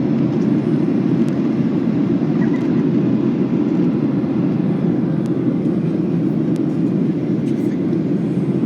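Steady low roar inside the cabin of a Boeing 737-800 in descent: jet engine and airflow noise, even and unbroken.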